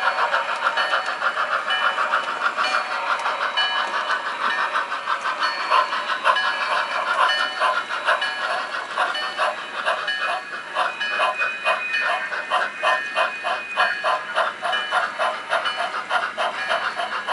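Sound-equipped HO scale model steam locomotive chuffing in a steady rhythmic beat through its small onboard speaker, thin with no bass.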